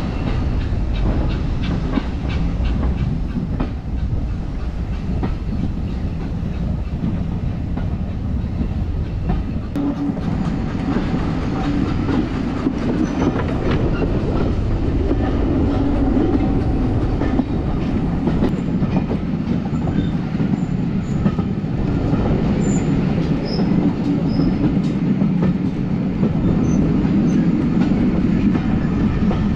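Vintage railway carriage rolling along the track, its wheels clicking over rail joints, with a steady low rumble that grows stronger from about ten seconds in as the train gathers speed.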